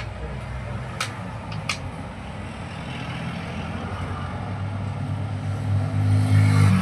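A motor vehicle's engine running close by, a low steady hum that grows louder toward the end. Two sharp clicks come a little after a second in.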